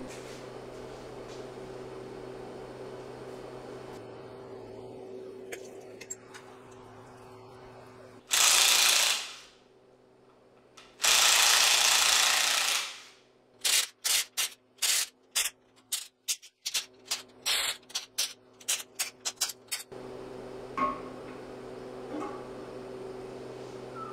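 Power tool run in two long bursts, then a quick string of short on-off bursts about three a second, over a steady workshop hum.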